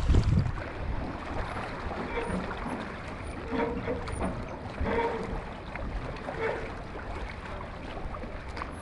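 Wind buffeting the microphone in gusts, with a rumble that is strongest at the very start. A few short, faint pitched sounds come in the middle.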